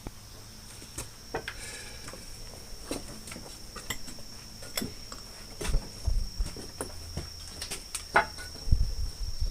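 Steady high-pitched trill of crickets, with scattered clicks and knocks and a few heavier thumps about six and nine seconds in.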